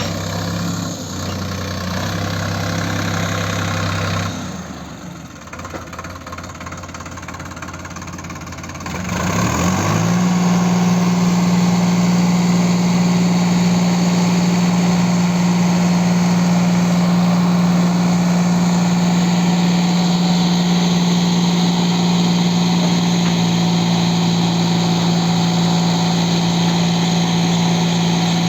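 Diesel engine idling, going quieter about four seconds in, then revving up about nine seconds in and holding at a steady higher speed.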